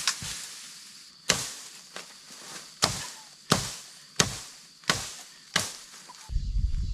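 Repeated chopping blows, about eight sharp strikes spaced evenly about two-thirds of a second apart. A low rumbling noise comes in near the end.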